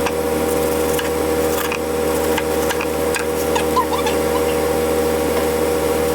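Steady appliance hum, like a kitchen fan, with light scraping, rubbing and scattered small clicks over it.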